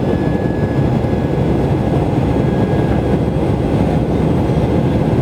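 Airliner noise heard by a passenger during takeoff: a loud, steady rumble of engines and rushing air, with a faint thin whine that fades after about two seconds.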